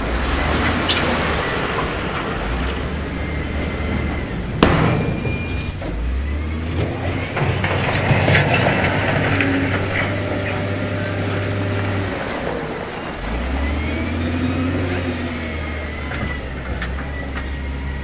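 Diesel engines of heavy earthmoving machinery running, revving up and down several times, with one sharp metallic clank about four and a half seconds in and some gritty scraping of stone.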